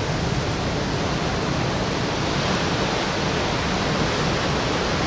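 Steady rushing noise of wind and ocean surf, strong in the low end, with no distinct events.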